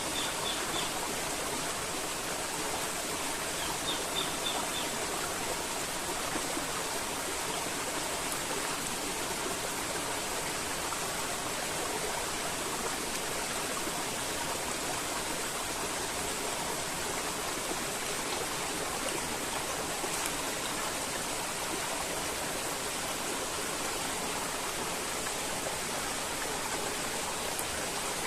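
River water flowing in a steady rush. A bird gives two short runs of three or four high chirps, one at the start and one about four seconds in.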